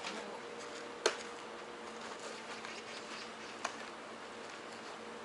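A steady faint buzzing hum, with two sharp knocks, one about a second in and a softer one near the four-second mark.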